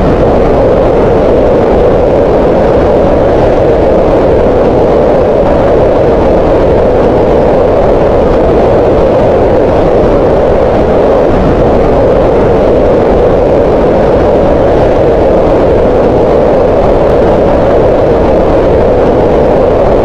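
Green noise: a steady, unbroken hiss-like rush centred in the middle range around 500 Hz, with no rhythm or change.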